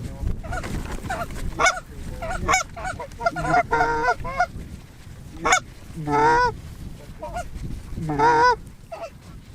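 Canada geese honking and clucking as flocks come in, mixed with hunters' short-reed goose calls working them with fast clucks and honks. The loudest, closest calls come about four, six and eight seconds in, over some wind rumble at the start.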